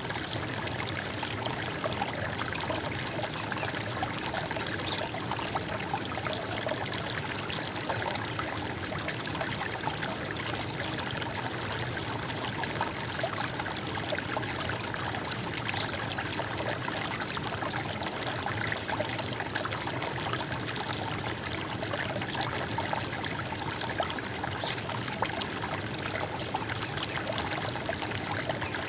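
Running water, flowing and splashing steadily without pause.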